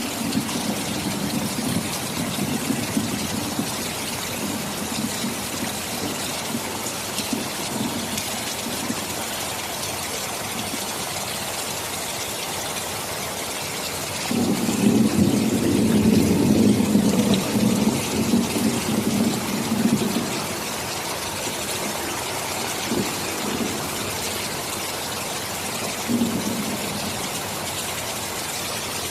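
Steady heavy rain with rolling thunder. A low rumble fades over the first few seconds, a louder one rolls for about six seconds around the middle, and a short one comes near the end.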